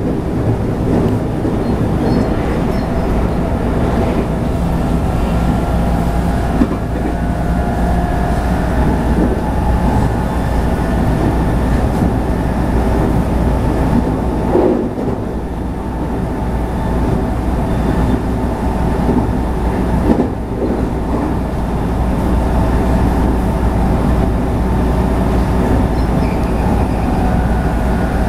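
JR West 221 series electric train running, heard from inside the leading car: a steady rumble of wheels and running gear with a steady hum from the drive, and a few rail-joint clacks.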